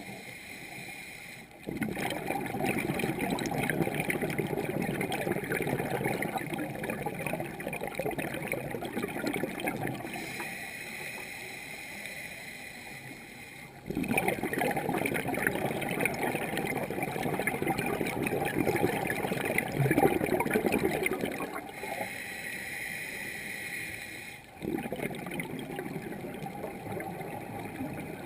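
Scuba diver breathing through a regulator underwater: three long bubbling exhalations, each several seconds long, starting about two, fourteen and twenty-five seconds in, with a quieter hiss between them.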